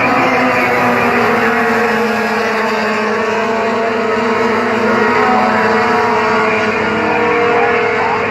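A motor vehicle engine running steadily, with a constant drone whose pitch drifts slowly up and down.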